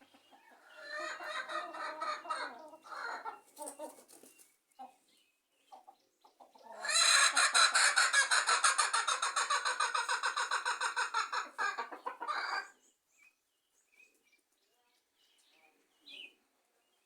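Chickens clucking: a burst of calls in the first few seconds, then a louder run of rapid, evenly repeated clucks lasting about six seconds, and a few faint calls after.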